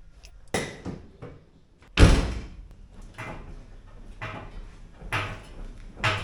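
A series of about six heavy knocks and clunks from work on a car during engine removal, the loudest and deepest about two seconds in.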